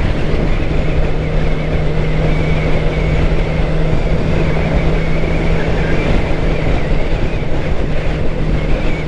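2013 Suzuki GSX-R600's inline-four engine running at a steady cruise, with one unchanging pitch over dense wind and road rumble.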